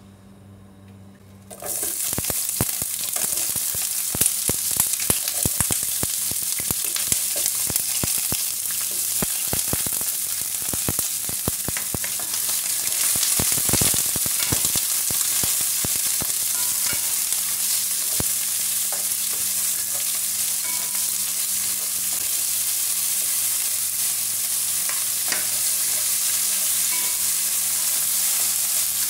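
Sliced onions frying in hot oil in a nonstick pan. The sizzling starts suddenly about a second and a half in and keeps on steadily, with clicks and taps from a wooden spatula stirring.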